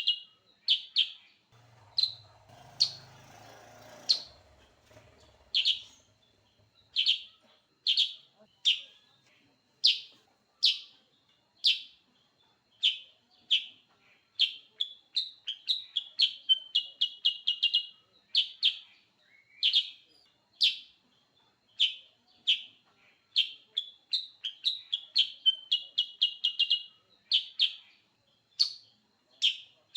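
Kutilang sutra bulbul calling energetically: a long string of short, sharp chirping notes, sometimes spaced out and sometimes tumbling in quick runs of several. A brief low rumble sounds about two to four seconds in.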